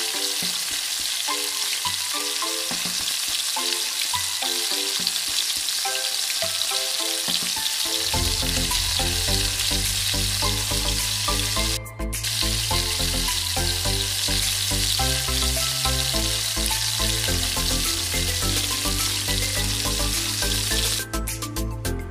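Yard long beans, corn and yellow bell pepper sizzling in hot oil in a nonstick pan, stirred with a silicone spatula. Background music plays throughout, with a bass line coming in about eight seconds in. The sizzling stops near the end, leaving only the music.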